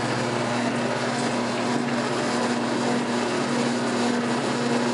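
56-year-old Maytag wringer washer agitating a load of wash, its motor and agitator giving a steady, even hum.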